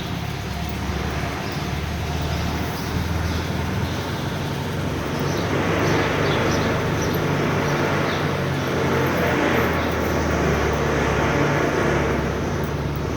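Air-cooled flat-four engine of a 1970 VW Beetle pulling in the Autostick's low gear while climbing a parking ramp, heard from inside the car. It grows louder partway through and eases off near the end.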